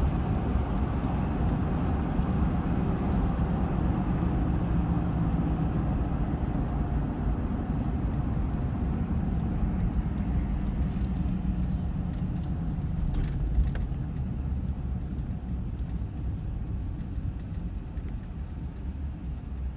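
Car driving, heard from inside the cabin: a steady low rumble of engine and road noise that eases slightly near the end.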